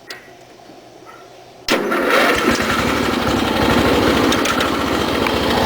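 Small single-cylinder engine of an MTD Yard Machines riding mower. It comes in abruptly about two seconds in and then runs steadily.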